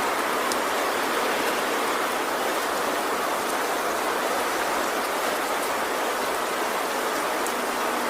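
Heavy rain falling steadily on a tin roof, with a few faint scattered drop ticks and no thunder.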